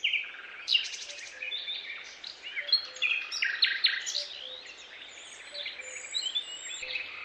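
Several birds chirping and calling over one another in a busy chorus of quick, high chirps and short trills.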